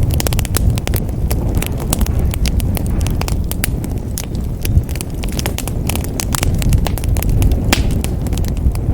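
Wood fire burning in a fireplace: dense, irregular crackling and popping of burning logs over a steady low rumble of flame.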